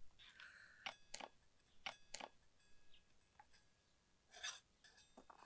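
Faint scattered clicks and light metallic clinks, several ringing briefly, from hardware being worked loose while concrete formwork is stripped.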